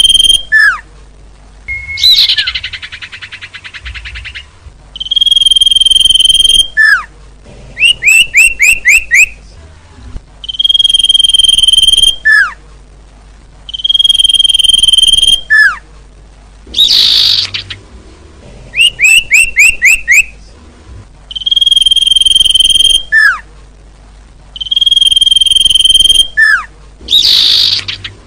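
Looped bird-lure recording of small songbirds calling. A held high whistle repeats every few seconds, each followed by a short falling note. Between them come runs of about five quick rising chirps, a buzzy rattle early on and two harsh rasping calls later.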